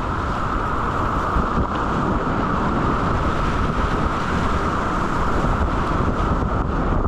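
Steady rushing of river whitewater, with wind buffeting the microphone and adding a low rumble.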